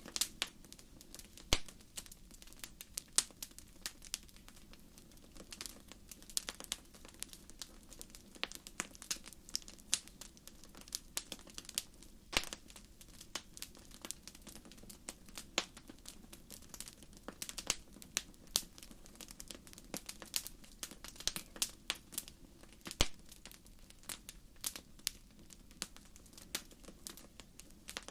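Wood fire crackling in a fireplace: irregular sharp pops and snaps several times a second, a few louder than the rest, over a low steady rumble of the flames.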